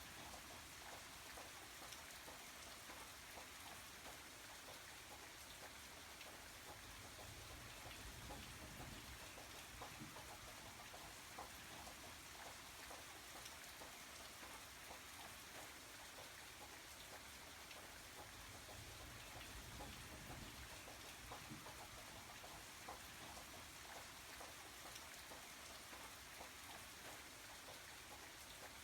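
Steady, quiet rain falling, an even hiss of rain with many small drops pattering on a surface.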